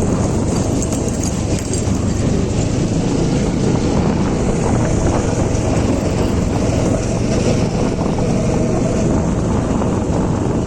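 Motorcycle engine running steadily while riding on a rough track, with wind noise on the microphone.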